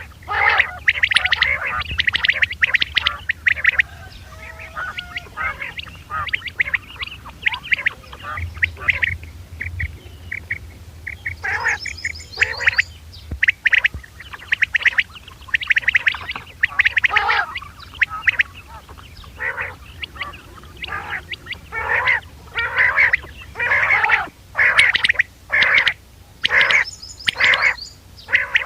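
Quail calling in quick repeated short notes, the calls crowding and overlapping at times, with a few higher, thinner calls twice. A steady low hum runs underneath.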